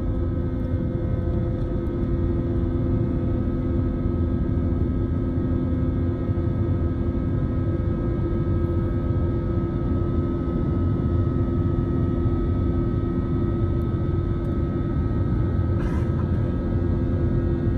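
Airliner jet engines heard from inside the passenger cabin during the takeoff and climb. It is a steady, loud, low rumble with several steady whining tones over it.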